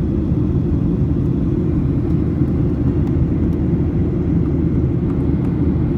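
Steady cabin drone inside a Boeing 737-800 airliner in flight: an even, low rumble of engine and airflow noise that does not change.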